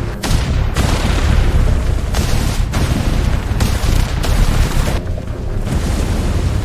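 A series of loud explosion-like booms over a heavy rumble, each blast starting and cutting off sharply, with a short lull about five seconds in.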